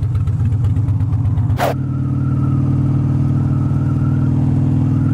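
Harley-Davidson V-twin motorcycle engine, first idling with an uneven, lumpy rumble. About a second and a half in there is a short rushing noise, and then the engine runs steadily at cruising speed with a thin steady tone above it.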